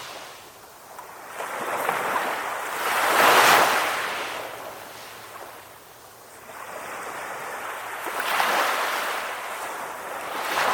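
Calm ocean waves washing onto a shore in slow surges. Two main waves swell and fall away, one about a third of the way in and one near the end, with quieter wash between them.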